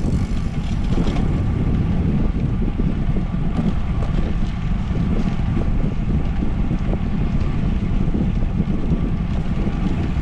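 Wind buffeting the microphone of a camera on a moving bicycle at riding speed: a steady, loud low rumble with a few faint clicks.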